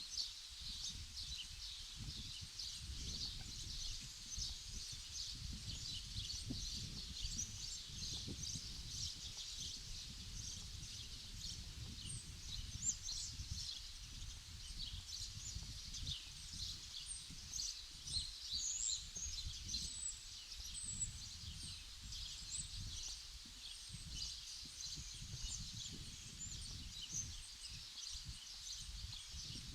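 Many small birds chirping continuously in a dense chorus of short high calls, over a low rumble underneath.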